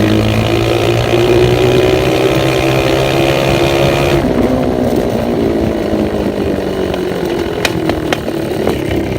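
Old Yamaha 125 dirt bike engine running loud through a blown muffler, held at high revs; about four seconds in the revs drop and it runs on at a lower pitch.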